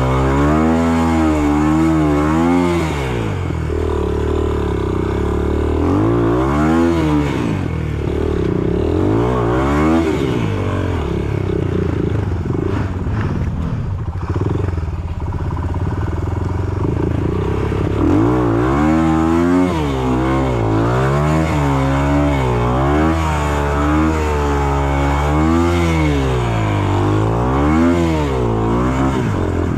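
Off-road motorcycle engine revving up and down over and over as the throttle is worked, with a steadier, lower-pitched stretch around the middle.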